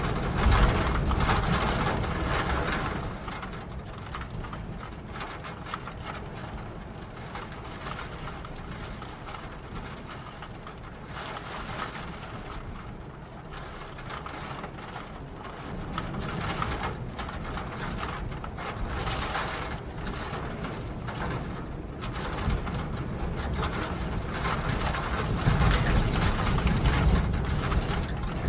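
Rain falling, heard as a dense stream of small ticks and clicks, with a low rumble that swells near the start, again around the middle, and near the end.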